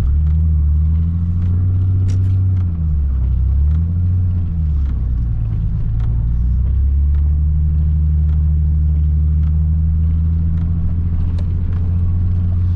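Nissan 300ZX's V6 engine running under way, heard from inside the cabin as a steady low drone. Its pitch dips and rises a few times in the first seconds as the revs change, then holds steady.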